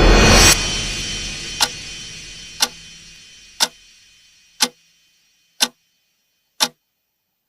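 A loud swelling noise cuts off about half a second in and fades away. Over it, a clock ticks six times, one tick a second.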